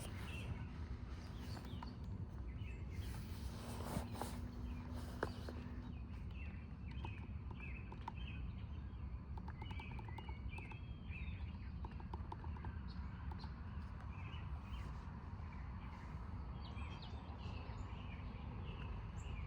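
Birds chirping and calling again and again, over a steady low rumble.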